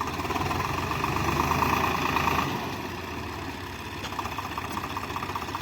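Swaraj 744 FE tractor's three-cylinder diesel engine running with a rapid, even beat. It swells louder for about two seconds, then drops back to a steadier, quieter run about two and a half seconds in.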